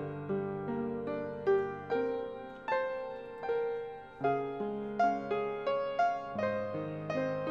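Solo piano playing a slow, gentle piece, its notes and chords struck and left to die away.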